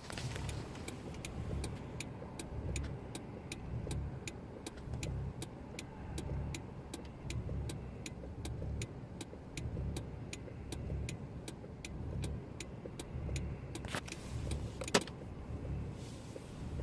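Car engine idling roughly, with an uneven low throb that swells and dips. Steady fast ticking runs over it and stops about three seconds before the end, and there is one sharp click shortly after.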